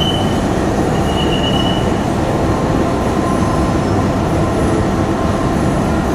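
Train rolling on the rails, a steady loud rumble of wheels and cars, with two short high-pitched wheel squeals in the first two seconds.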